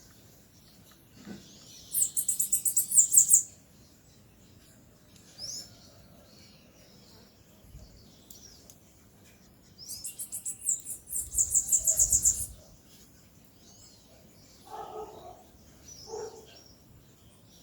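Songbird chirping in two fast, very high-pitched runs of thin notes, each lasting about two seconds, the second starting about ten seconds in. A few short, softer, lower calls follow near the end.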